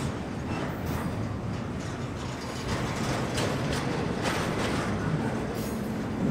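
Double-stack intermodal freight train's well cars rolling past at close range: a steady rumble of steel wheels on rail, with irregular sharp clicks and clanks from the wheels and cars.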